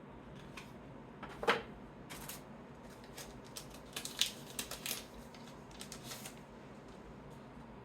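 Trading cards being handled and sorted by hand: a run of short clicks, taps and slides, loudest about a second and a half in and again around four seconds in.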